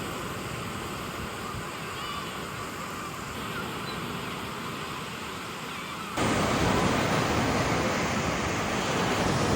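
Sea surf washing on a beach, a steady rush of noise that jumps louder about six seconds in.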